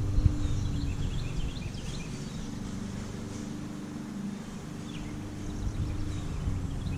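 Outdoor ambience: a low rumble with a steady hum that fades through the middle and picks up again near the end, with a few faint bird chirps.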